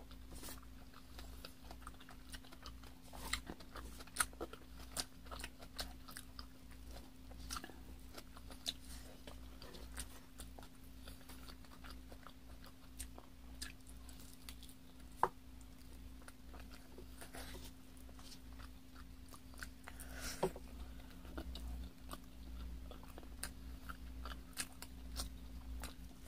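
Close-up chewing and biting of a braised chicken drumstick (chicken hamonado) with rice: irregular mouth clicks and smacks scattered throughout, over a faint steady low hum.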